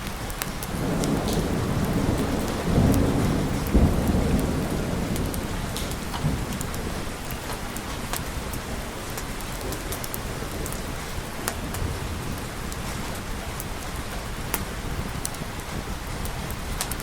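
A thunder rumble over steady rain. The low rumble swells about a second in, is loudest around three to four seconds, then fades away over the next few seconds, leaving the rain with scattered sharp ticks.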